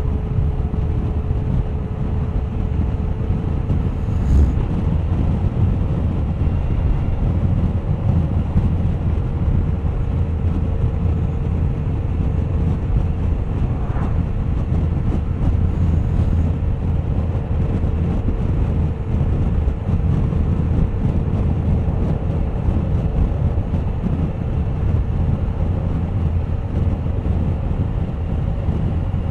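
Suzuki GSX1250FA's inline-four engine running at a steady cruising speed, its note holding almost level, under heavy wind rush on the microphone.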